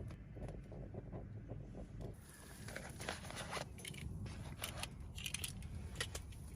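Scattered sharp clicks and crackles over a steady low rumble, busier in the second half.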